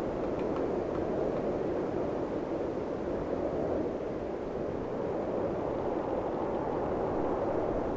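A steady rushing noise with no pitch or rhythm, even throughout, with a few faint ticks just after the start.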